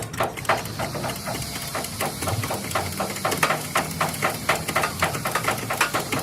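Rapid, irregular hammer blows on metal, about three or four a second, over a steady low hum.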